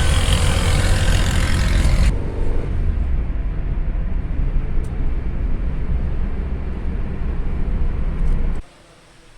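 Car driving on a city road: steady rumble of tyres and engine. The hiss above it drops away suddenly about two seconds in, and the sound cuts off abruptly near the end.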